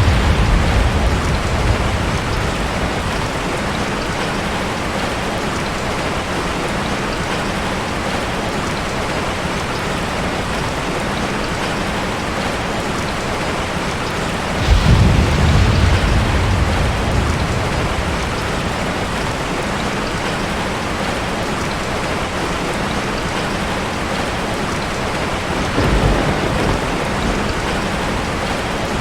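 Heavy rain falling steadily, with thunder: a rumble fading out at the start, a sudden loud rumble about halfway through that dies away over a few seconds, and a softer one near the end.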